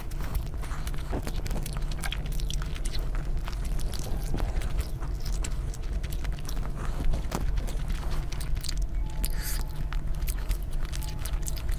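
A person eating close to the microphone: bites and chewing, with many short crackling clicks throughout, over a steady low hum.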